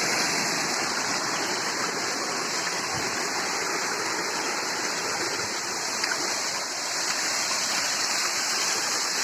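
Steady rushing of water from a rain-fed hillside waterfall, heard up close as a continuous even roar.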